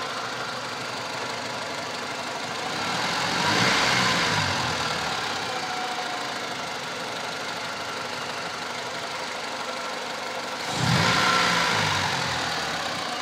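2004 Honda Civic's four-cylinder engine idling with a steady high-pitched whine. The engine is blipped on the throttle twice, about three seconds in and again near the end, the revs rising and then settling back to idle.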